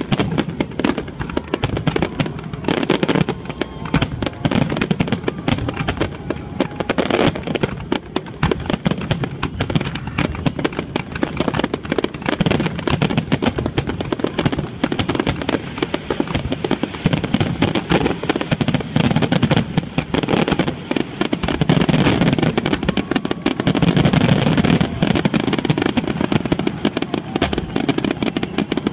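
Fireworks finale: aerial shells bursting in a dense, continuous barrage of overlapping bangs and crackles, with no pause between them. The barrage is at its loudest a little past three-quarters through.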